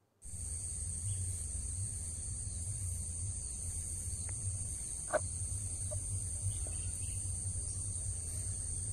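Steady high-pitched insect chorus over a low rumble, cutting in abruptly at the start, with a short chirp about five seconds in.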